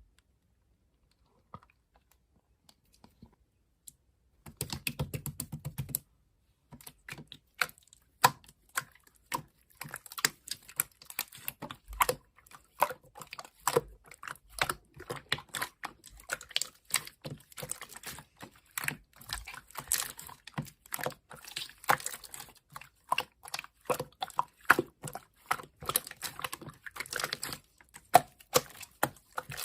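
Rapid, irregular clicking and tapping that starts about four seconds in and grows denser toward the end, with a short low noisy patch about five seconds in.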